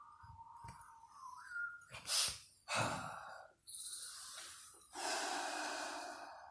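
A thin held high tone fading out, followed by a few sharp, forceful breaths and a long breathy exhale: audible breathing that closes a Māori chant.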